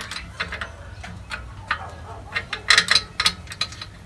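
Light metallic clicks and clinks of brake and hub parts being handled and worked at a car's rear drum-brake hub, coming in irregular runs with a quick cluster a little before three seconds in.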